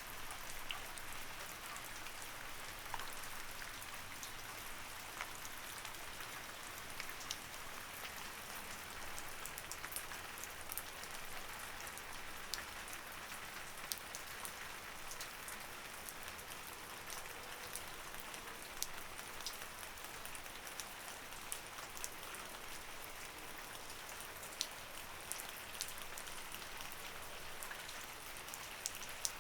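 Light rain falling steadily, with many separate drops ticking sharply on a surface over an even hiss.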